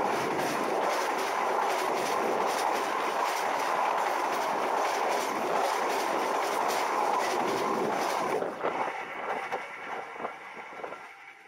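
Kertajaya passenger train running at speed directly overhead, heard from beneath the cars between the rails: loud rolling noise of steel wheels on rail with a rapid, regular clatter. About eight seconds in the last car passes and the noise drops away, fading with a few scattered clicks.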